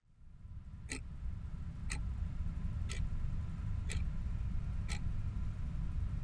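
A clock ticking, five sharp ticks one second apart, over a low steady hum of room tone.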